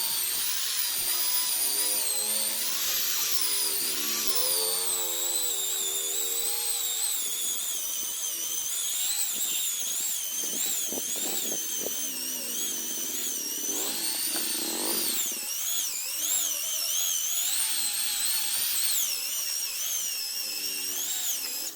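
Handheld electric car polisher running continuously, its high motor whine wavering in pitch as it is pressed against the body panel and eased off.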